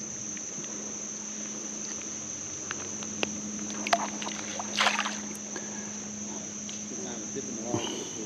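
Steady, high-pitched drone of insects, like a cricket chorus, running through. A few sharp clicks and a brief rustling burst come about halfway through.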